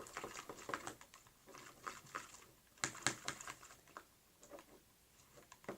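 Slime with too much activator in it being kneaded and squeezed by hand, giving irregular sticky clicks and small pops, with a bunch of them around the middle.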